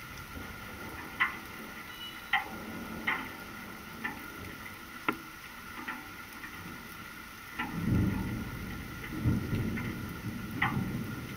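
Steady summer rain hissing, with single large drops ticking irregularly on a hard surface about once a second. About eight seconds in, a low rumble of thunder rolls for about three seconds and swells twice.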